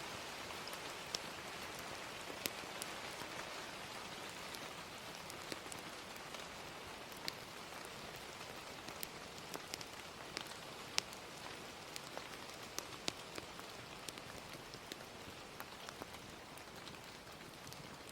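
Ambient recording of steady rain hiss with irregular sharp crackles and pops of a wood fire scattered through it, a few of them louder than the rest.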